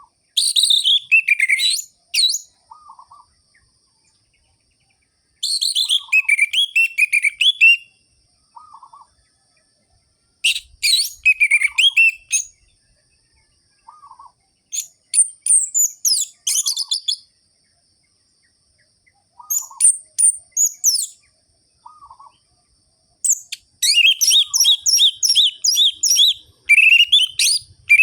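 Orange-headed thrush singing a loud song of rapid, varied whistled notes. The song comes in about six phrases, each a couple of seconds long with short pauses between them, and the last phrase runs longest, near the end. A faint short note repeats every few seconds underneath.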